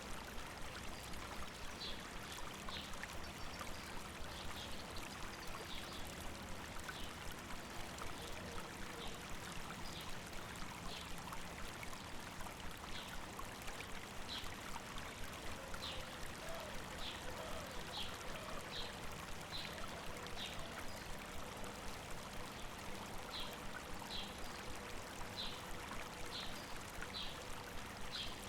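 River water flowing and babbling steadily over rocks, with small birds giving short high chirps every second or so.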